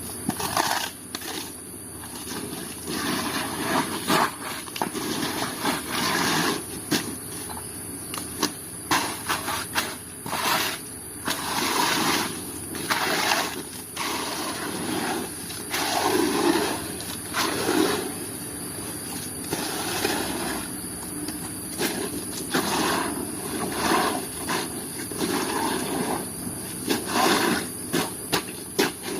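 Wet concrete being shovelled and spread, an irregular run of scraping, sloshing strokes of varying length.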